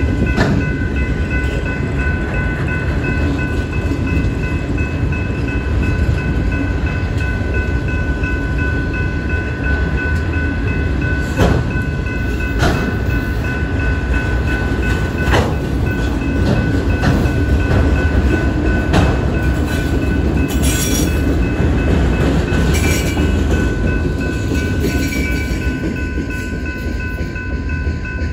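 Union Pacific freight train's autorack cars rolling past on the rails: a steady rumble of wheels with scattered sharp clanks, over the continuous ringing of the grade-crossing signal bell. The rumble thins near the end as the last car goes by.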